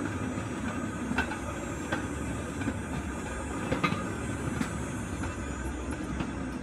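Steel wheels of a pedal-powered four-wheeled rail bike rolling along railroad track: a steady rumble with a few sharp clicks scattered through it.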